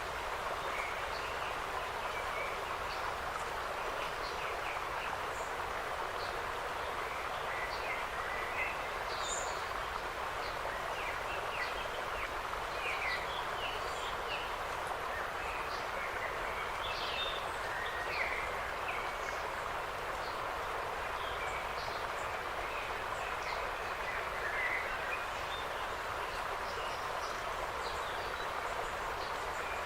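Forest ambience: many short, high bird chirps and calls scattered over a steady hiss of background noise.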